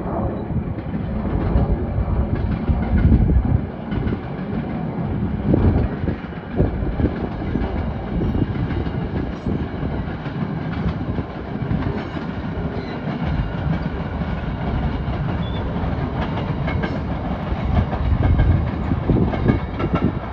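A train passing close by: a continuous heavy rumble with irregular knocks of the wheels on the track.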